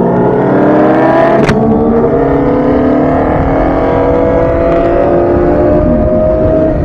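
Kawasaki ZX-25R's 250 cc inline-four through a Villain R11 exhaust, accelerating under way: it shifts up about a second and a half in, then pulls through the next gear with the pitch rising steadily, shifting again near the end.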